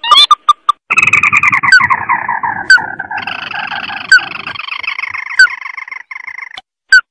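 Crake call from a bird-lure recording (tikusan mata merah). A few short sharp notes come first. About a second in, a long chattering trill starts and falls in pitch, then gives way to a harsher, steady rattling trill that stops shortly before the end. Single sharp notes repeat about every second and a half over it.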